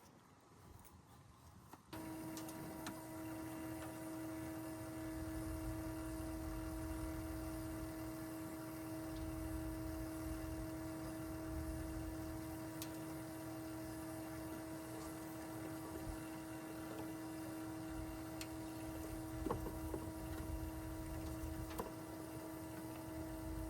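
Smoke leak detector machine switching on about two seconds in and running with a steady hum, pumping smoke into the engine to find a vacuum leak. A few faint ticks sound over it.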